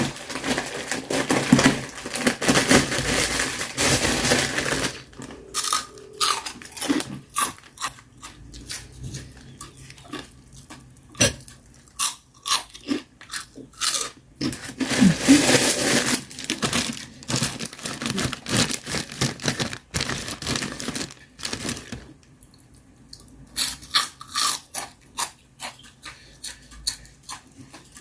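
Close-up eating sounds: crunching and chewing, with many short, sharp clicks scattered throughout.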